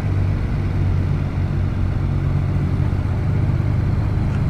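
Motorcycle engine running steadily at low revs while riding along, heard from the rider's camera.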